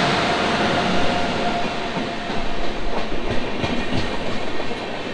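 LHB passenger coaches of an express train rolling past along the platform as it pulls into the station, a steady rumble and rush of wheels on rail. A cluster of sharp wheel clicks over rail joints comes about two to four seconds in.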